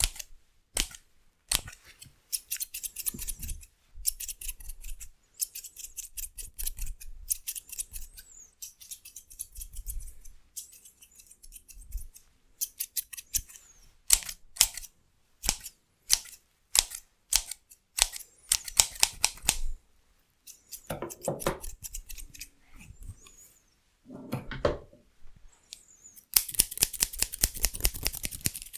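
Hair-cutting scissors snipping, sometimes as single sharp snips and sometimes in fast runs of clicks, with short pauses between; the densest run comes near the end.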